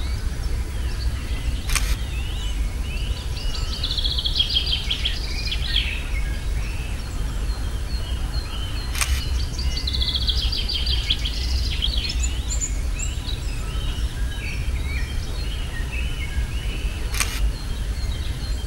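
Several songbirds singing, with fast trilling phrases twice. Three sharp clicks come about seven seconds apart over a steady low rumble.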